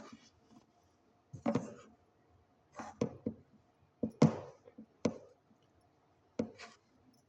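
Kitchen utensils knocking and clattering in short separate bursts, about five over a few seconds, with quiet gaps between.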